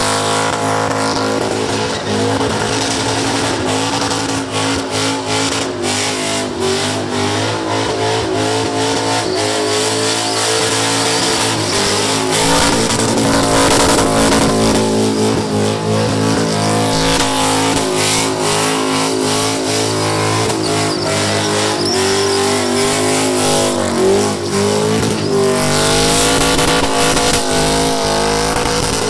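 LS1 V8 in a Lexus IS200 held at high revs through a burnout, its note dipping and climbing again, over the hiss and squeal of the rear tyres spinning on the bitumen.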